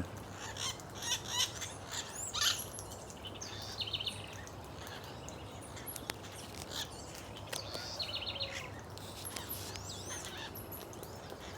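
A flock of birds calling from a tree crown: scattered short, high chirps with a couple of brief trilling calls, fainter later on.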